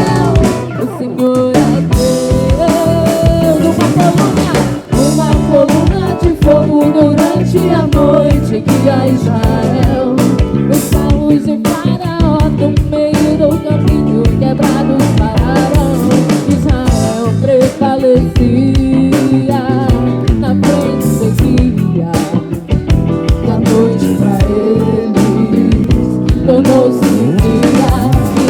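A live band playing music: drum kit, bass, guitars and keyboards, loud and steady.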